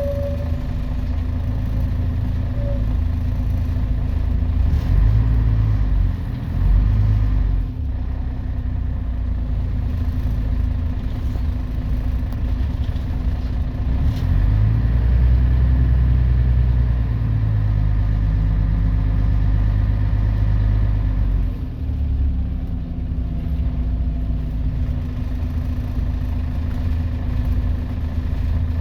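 Scania CN113CLL city bus with a Scania DSC 11.71 diesel engine and Voith D863.3 automatic gearbox, running while driving. The engine works harder twice, about five seconds in and again from about fifteen to twenty-one seconds, and eases off in between.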